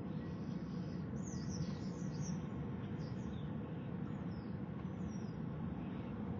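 Birds chirping in short, high, quick notes over a steady low background noise.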